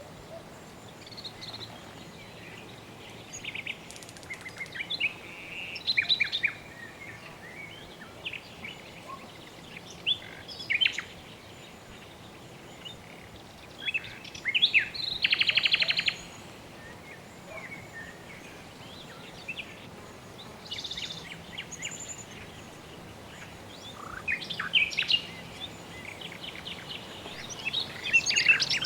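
Songbirds chirping and calling in scattered bursts of short high notes, with a fast trill about halfway through and another near the end, over a faint steady hiss of outdoor ambience.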